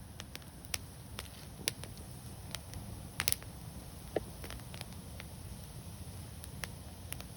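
Wood fire crackling: scattered sharp pops and snaps, with a quick cluster of them about three seconds in, over a low steady rumble.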